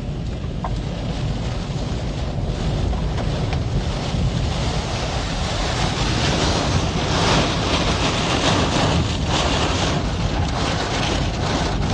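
Tornado winds blasting over the microphone: a loud, steady rush of wind noise with heavy low rumble, growing a little stronger past the middle.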